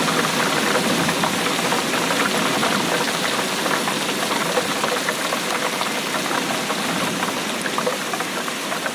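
Steady heavy rainfall, a dense even patter of drops.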